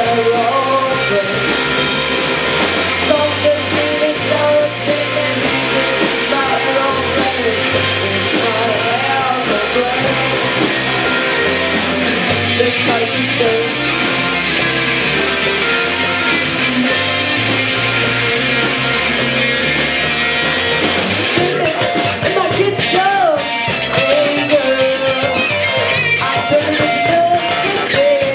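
Live rock band playing: electric guitar over a moving bass line and drums, with singing.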